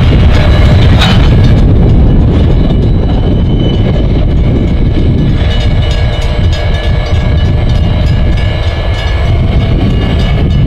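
Norfolk Southern diesel-hauled local freight train running, a steady loud low rumble with several steady high tones over it and a sharp click about a second in.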